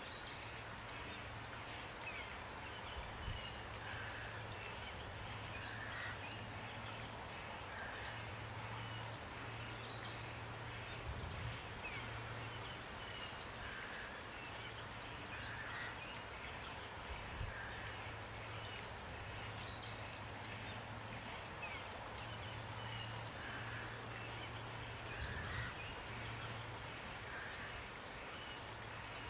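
Steady rain hiss with small songbirds chirping and trilling high over it, the same run of calls coming back about every ten seconds.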